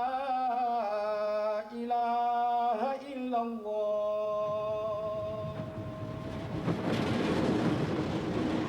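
A man's voice chanting in Islamic style, holding long notes with melodic ornaments. About six seconds in, the chant fades under a steady rushing noise.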